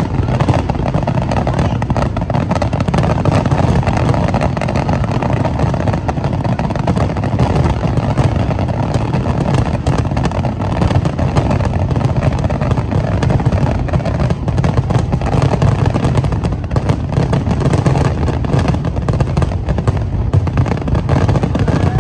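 Aerial fireworks bursting in rapid, overlapping succession, the bangs merging into a continuous low rumble.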